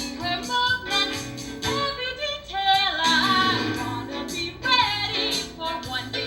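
Musical theatre show tune: a solo voice singing over instrumental accompaniment.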